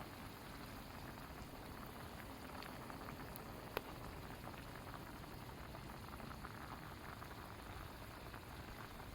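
Food simmering in a pot over a campfire: a steady, faint bubbling with scattered light crackles and one sharp click a little under four seconds in.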